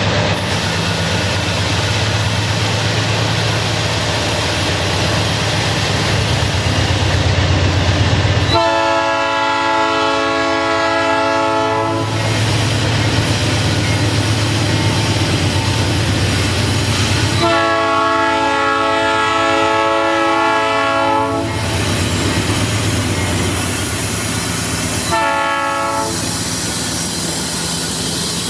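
Freight train locomotive passing, its diesel engine and wheels giving a steady low rumble, while its multi-chime air horn sounds a chord two long times and then once short, the start of the long-long-short-long grade-crossing signal.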